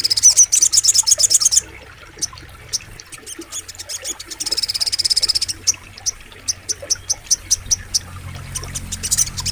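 Sogok ontong bird singing in fast, high-pitched trills of rapidly repeated notes. One trill ends about a second and a half in and another comes about halfway through, with single sharp chips between and after them.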